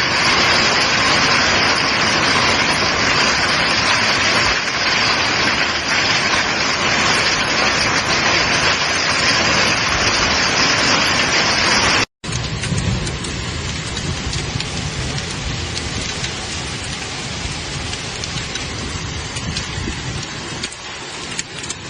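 Heavy rain pouring down in a steady, dense hiss, in two clips joined by a sharp cut about twelve seconds in; the second clip has more low rumble.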